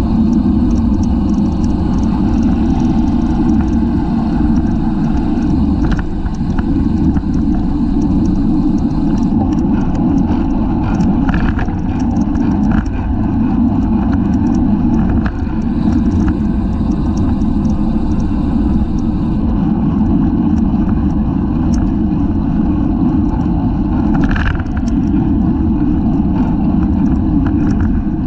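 Steady wind and road rumble on a bicycle-mounted camera while riding, with scattered light clicks and rattles from the bike.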